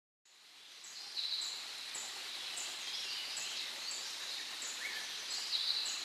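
Small birds chirping over a steady hiss of outdoor ambience that fades in at the start: a short high note repeated about once every two-thirds of a second, with a few lower chirps between.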